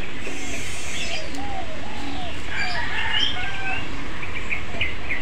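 Birds calling: a dove cooing in a run of short rising-and-falling notes, with small birds chirping higher up over a steady low background rumble.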